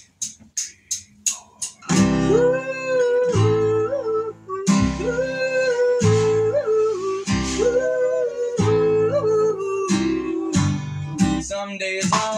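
Country band's instrumental intro: a run of quick sharp clicks for the first two seconds, then electric or acoustic guitar, bass and drums come in together, with a guitar carrying a melody of long, bending notes.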